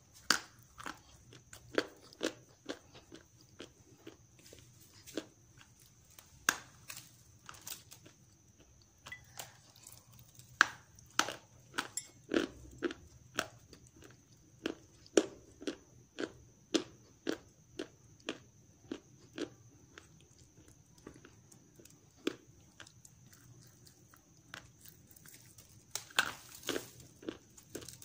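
Close-miked biting and chewing of dried grey clay paste: sharp, irregular crunches, about one or two a second, thinning out for a few seconds past the middle and bunching up near the end.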